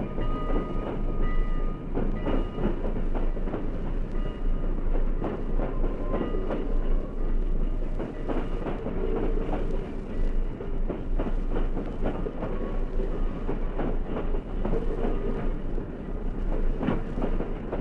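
Steam-hauled train running past, a dense, continuous clatter of wheels over rail joints with a constant low hum underneath.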